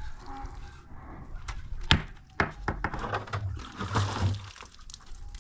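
A few sharp knocks and thuds, the loudest about two seconds in, followed by a stretch of rustling.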